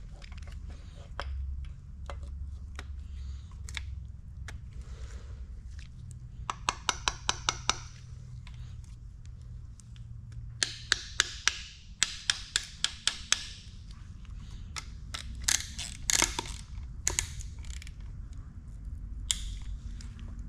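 A ratchet wrench clicking in several short runs of quick, evenly spaced clicks as it tightens a piston ring compressor band around a piston.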